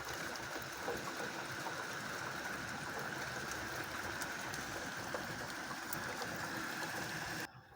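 Steady rain falling, an even hiss of water with scattered drop ticks, which cuts off abruptly near the end.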